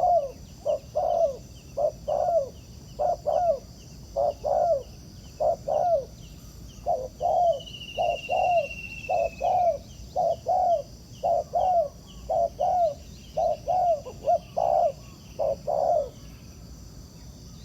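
Spotted doves giving the short, rapidly repeated bowing coo ("gù"), about two notes a second, of males at a lure trap; the coos stop near the end. A single high whistle glides down briefly about halfway through.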